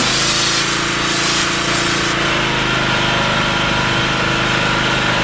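Pressure washer engine running steadily while the sand injection nozzle blasts water and fine sand, a loud hissing spray for about the first two seconds, with brief breaks, that then stops while the engine runs on.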